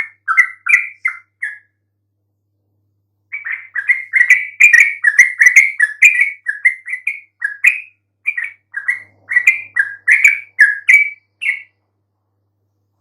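Yellow-vented bulbul (trucukan) singing energetically in quick bubbly chirping notes. A short run is followed by a pause of under two seconds, then a long fast run that stops shortly before the end.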